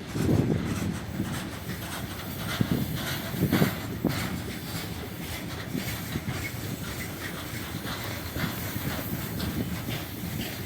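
Freight train wagons rolling past, a steady rumble with several heavy knocks of the wheels over rail joints.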